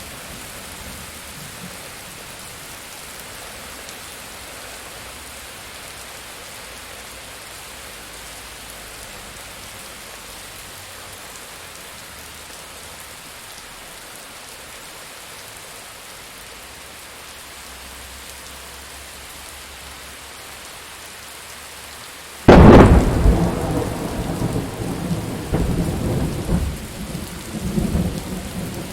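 Steady rain falling, then a sharp thunderclap about three-quarters of the way through that rolls on into a long, uneven rumble of thunder.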